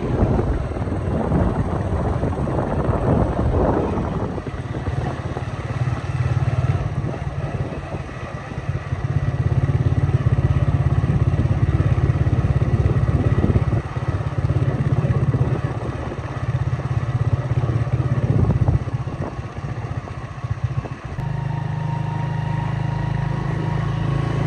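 Motor vehicle traffic: engines running with a steady low drone, which shifts to a different steady pitch about 21 seconds in.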